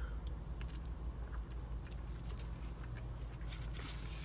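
Close-up chewing of a mouthful of veggie wrap, faint wet crunches that gather into a short burst of crunching about three and a half seconds in, over a steady low hum.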